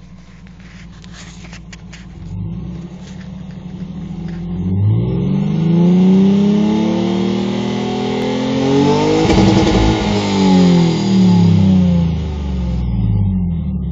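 Lexus IS200 running through a custom decat exhaust with a stainless Y-pipe and Scorpion cat-back: a steady low idle, then the engine revved up and let fall several times, loudest in the middle of the run.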